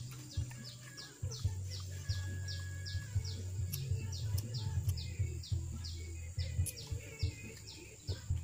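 A bird calling in a fast, even series of short falling chirps, about three a second, over a low steady rumble.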